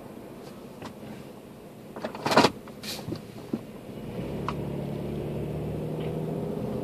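Car engine heard from inside the cabin, picking up as the car pulls away from a standstill about four seconds in and then running steadily. A short, loud burst of noise comes about two seconds in, before the car moves.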